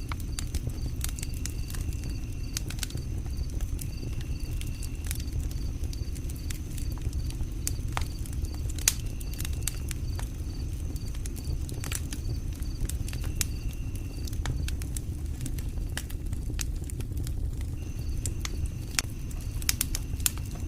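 Campfire burning with irregular sharp crackles and pops over a low rumble of the flames. Insects chirp steadily in a high, evenly pulsing pattern behind it.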